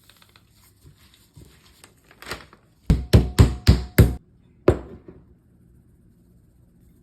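Light clicking and a brief rustle, then five quick sharp knocks and, after a short pause, one more: hard kitchen items or utensils striking while lunch is packed.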